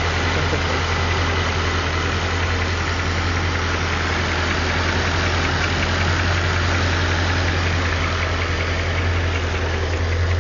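Mercedes CLK DTM AMG's supercharged 5.4-litre V8 idling steadily, with an even low hum.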